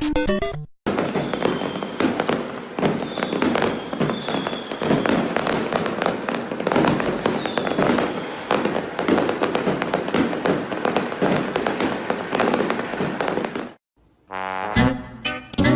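A long string of firecrackers going off: rapid sharp cracks and pops, many a second, keeping up for about thirteen seconds and then stopping suddenly. Music plays briefly at the start and comes back near the end.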